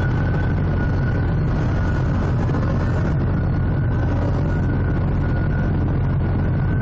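Heavy diesel machinery running at a steady pitch: a loud, even low rumble with a faint high whine over it and no revving or changes.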